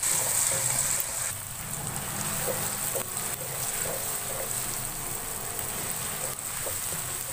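Chopped onions, tomatoes, green chillies and ginger frying in oil in a wok, a steady sizzle, a little louder for the first second or so, while a wooden spatula stirs through the mixture.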